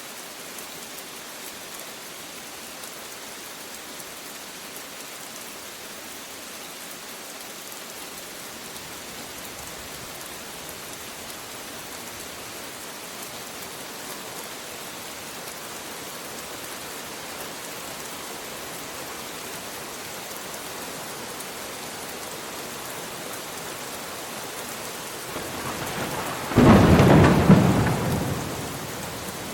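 Rain falling steadily with an even hiss. Near the end a loud clap of thunder breaks in and rumbles for a couple of seconds before fading.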